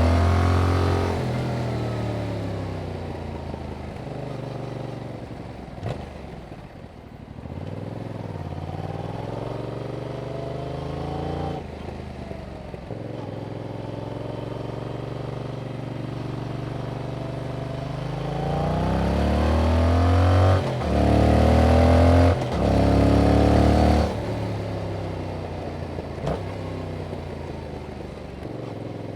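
2021 Yamaha MT-07's 689 cc parallel-twin engine through its stock exhaust, under way: the revs fall at first, then rise and step down through gear changes, and about two-thirds of the way in it pulls hard with two quick upshifts before the throttle rolls off.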